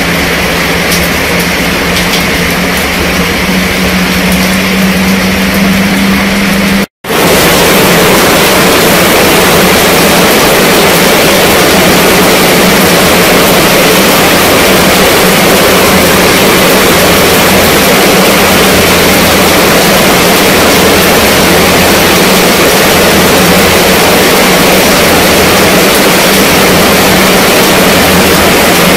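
Heavy rain drumming on a fabric tent canopy, a dense steady patter, with a low steady hum under it at first. About seven seconds in the sound cuts out for an instant, then the rain comes back denser and louder, without the hum.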